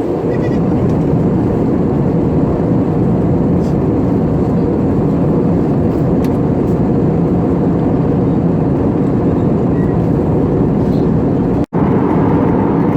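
Steady in-flight cabin noise of an Airbus A320neo: a loud, even, low rushing drone of airflow and engines. The sound cuts out for an instant near the end.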